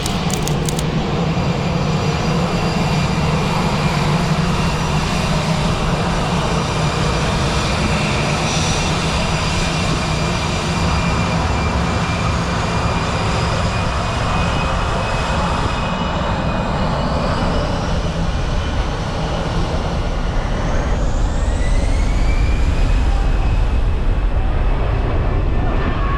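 Aircraft engines running loud and steady with a high whine. In the last third the whine rises in pitch and a deep rumble swells.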